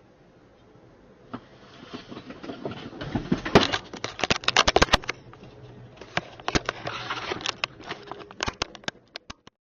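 Car collision picked up by a dashcam: two long runs of sharp knocks, crunches and crackles, the loudest hits about three and a half seconds in, the sound ending abruptly near the end.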